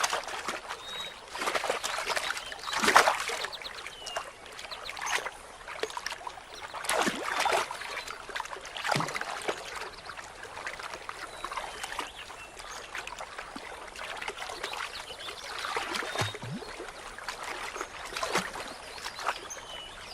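Water splashing irregularly in a shallow stream over a steady trickle, as a river otter fishes among spawning trout; the loudest splash comes about three seconds in.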